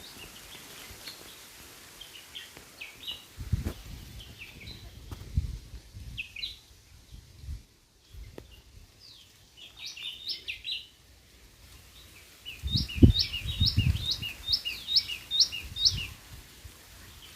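White-throated fantail calling in short chirping notes, then about two-thirds of the way in a run of some eight quick, evenly spaced notes. Low thuds sound underneath, the loudest at the start of the run of notes.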